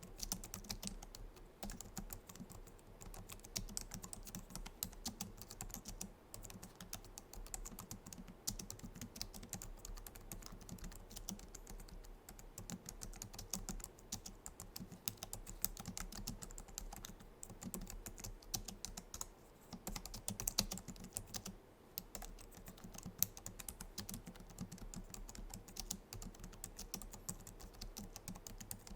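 Continuous fast typing on a Logitech MX Keys keyboard: a dense patter of soft low-profile scissor-switch keystrokes with a few short pauses.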